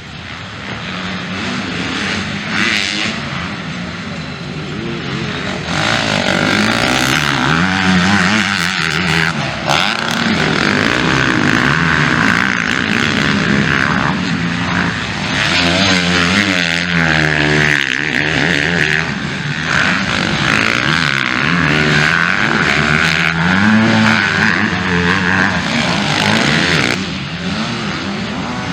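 MX2-class motocross bikes racing, several engines revving up and down in pitch through the throttle and gear changes, overlapping as riders pass.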